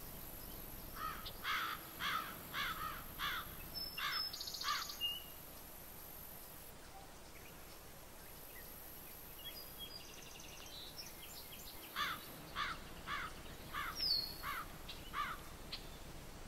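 A bird calling: a run of short sliding notes, about two a second, repeated in two series several seconds apart, over the steady hiss of a trail camera's microphone.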